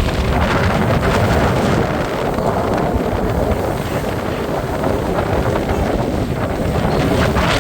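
Steady wind rushing and buffeting over the microphone on the deck of a moving boat, with a low rumble from the boat underneath.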